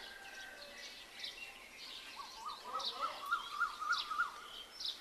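Birds calling outdoors: scattered short high chirps, and in the middle a run of about eight quick rising-and-falling notes, several a second.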